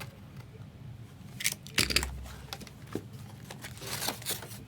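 Trading card packs and their wrappers being handled: a run of rustles, crinkles and small clicks, with a soft thump about two seconds in.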